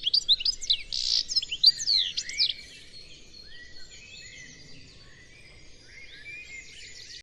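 Several small songbirds chirping and twittering at once, busy and loud for the first two or three seconds, then thinning to fainter, scattered chirps.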